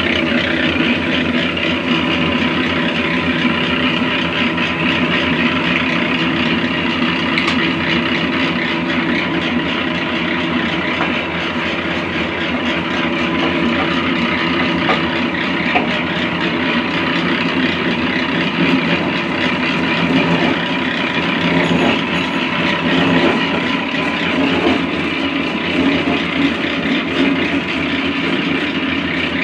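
A motor-driven machine running steadily, a constant hum with a fixed steady tone and no change in speed.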